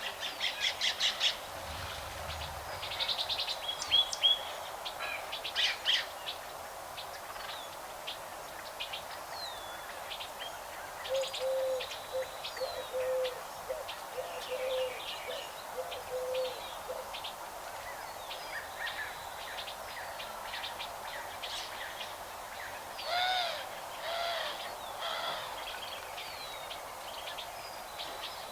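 Several birds calling and chirping, with quick high chirps and trills. About a third of the way in comes a run of low hooting notes, and near the end a few louder arching calls.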